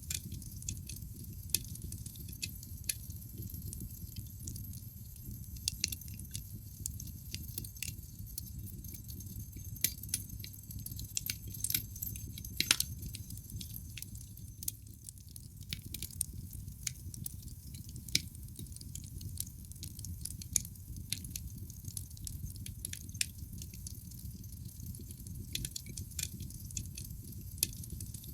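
Wood fire burning in a fireplace: irregular sharp crackles and pops over a low, steady rumble of the flames, with one louder pop a little before halfway.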